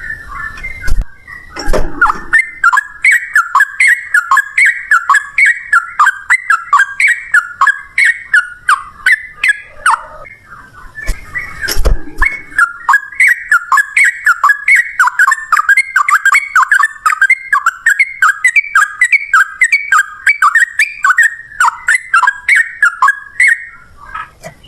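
Yellow-vented bulbul (trucukan) singing a rapid, continuous run of short, clear bubbling notes, about three a second, in the fast unbroken 'ropel' style. The song breaks off briefly about ten seconds in, and a few dull knocks sound near the start and about twelve seconds in.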